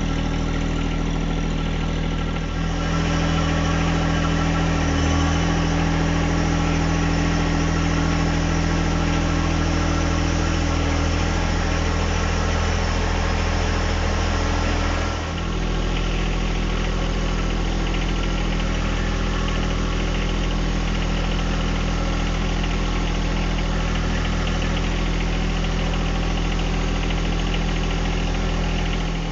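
John Deere 1025R compact tractor's three-cylinder diesel engine running steadily. It gets a little louder about two and a half seconds in, and dips briefly around the middle.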